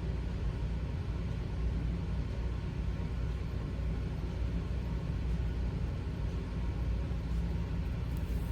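Steady low rumble of background noise, even and unchanging, with no distinct events.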